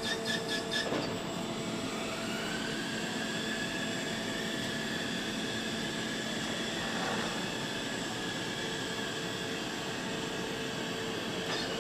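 Steady factory machinery noise: a constant mechanical hum with a whining tone that rises about two seconds in and fades out around seven seconds.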